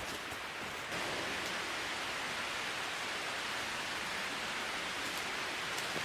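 Steady rushing water noise, an even hiss that gets a little louder about a second in, with a few faint drip-like ticks in the first second.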